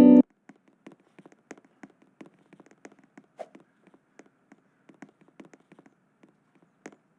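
Guitar music cuts off abruptly right at the start, followed by faint, irregular light taps and clicks, several a second, over a faint low hum.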